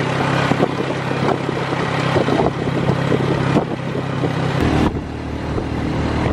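Small motorcycle engine of a passenger tricycle running steadily while under way; its note changes and drops about four and a half seconds in.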